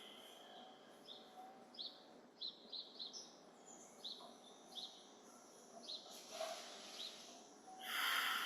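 Small birds chirping: a string of short, high chirps, one or two a second, over a steady faint outdoor hum. Near the end a louder rushing sound rises over them.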